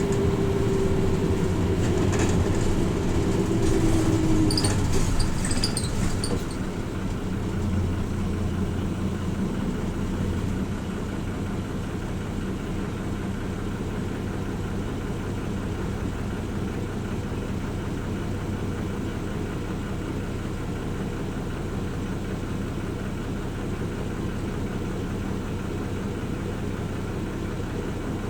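Hino Rainbow RJ city bus slowing to a stop: a falling whine and louder running over the first six seconds, then the diesel engine idling steadily while stopped.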